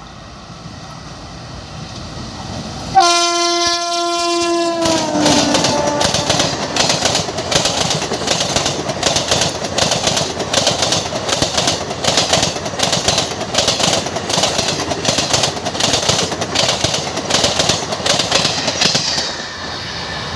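An express train's locomotive horn blasts loud as it arrives and drops in pitch as it passes, followed by its coaches' wheels clattering over an open-deck steel rail bridge in a steady beat of about two knocks a second, fading out near the end.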